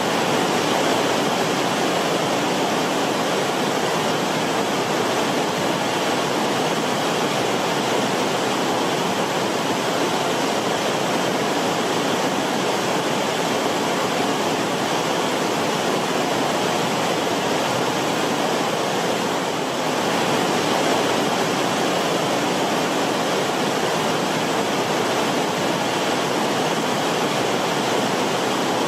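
Creek water rippling and bubbling over rocks in a shallow creek bed: a steady, even rushing.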